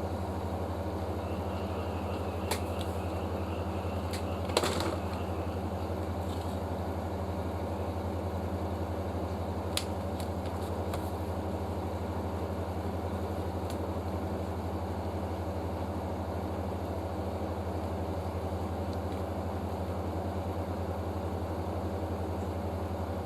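A steady low electrical or machine hum, with a few light clicks and a short rattle about four and a half seconds in.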